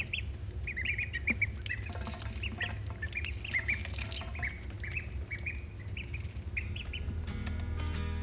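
A group of week-old ducklings peeping, with many short high-pitched peeps overlapping in quick succession. Guitar music comes in about seven seconds in.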